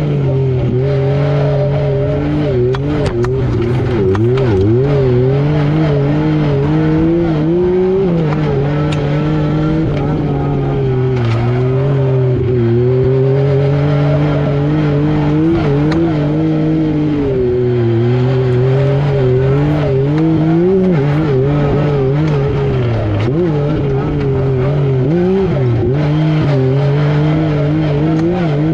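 Yamaha YXZ1000R SS side-by-side's three-cylinder engine running hard, its revs rising and falling over and over as it is driven.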